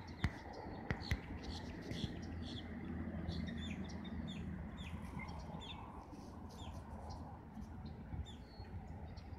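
Birds calling: many short, quick chirps that slide downward in pitch. A few sharp knocks come in the first second or so.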